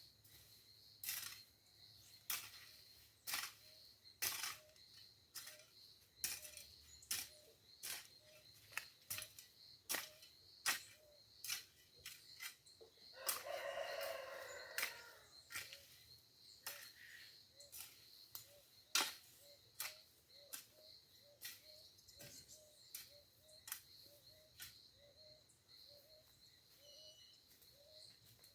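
A rooster crows once, a call of about two seconds near the middle. Around it run a steady high insect drone, soft repeated chirps, and many sharp clicks or knocks at irregular intervals.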